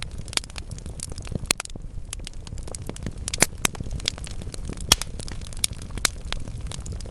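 Wood fire burning in a fireplace: a steady low rumble of flames with frequent irregular crackles and sharp pops from the burning logs, the loudest pops about three and a half seconds and five seconds in.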